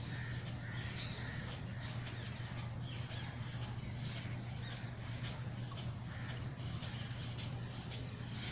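Kapalbhati breathing: short, forceful exhalations through the nose, about two a second, over a steady low hum. A few faint bird chirps come near the start.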